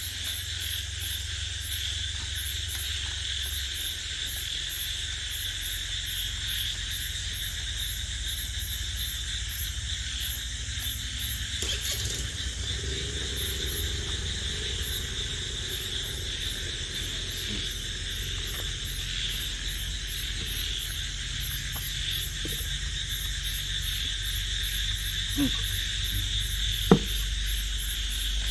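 Night chorus of crickets and other insects: a high, regular chirping pulse a few times a second over a steady insect drone, with a low rumble beneath. Two sharp clicks near the end, the second the loudest sound.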